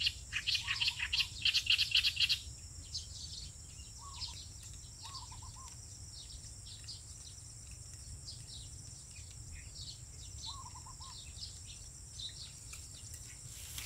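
Wild birds chirping and calling: a fast run of chirps in the first two seconds, then scattered short chirps and a few lower warbled notes, over a steady high-pitched insect drone.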